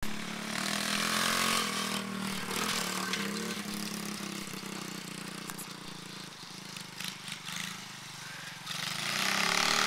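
Pit bike engine running, its drone getting louder about half a second in and again near the end, with the pitch shifting up and down in between.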